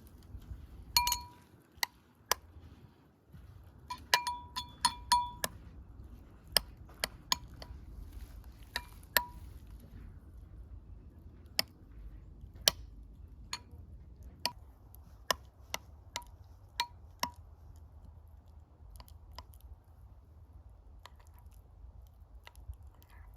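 Tableware clinking: a run of light, sharp clinks, several ringing briefly. They come thickest in the first half and grow sparser towards the end.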